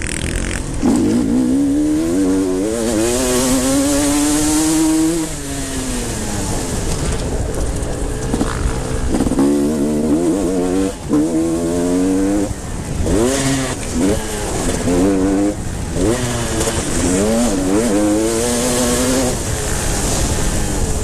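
Motocross bikes racing, engines revving hard and climbing in pitch through the gears, then dropping off, over and over as the bikes go round the track.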